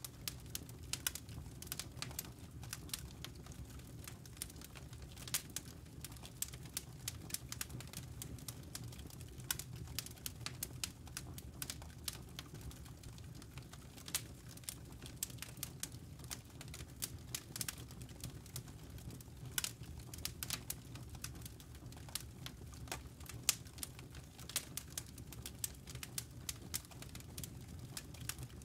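Wood fire burning in a fireplace: irregular sharp crackles and pops of the logs over a steady low rumble.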